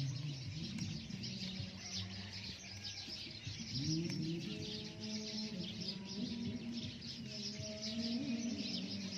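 Small birds chirping steadily and densely, with some lower pitched calls mixed in.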